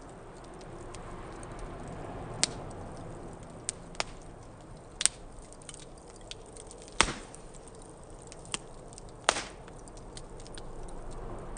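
Small wood fire in a fire-pit stand burning with a steady low hiss, punctuated by about seven sharp, scattered pops and cracks from the burning wood, the loudest about seven seconds in and just after nine seconds.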